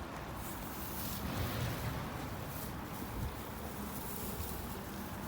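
Steady low rumbling outdoor noise, with no distinct sound standing out.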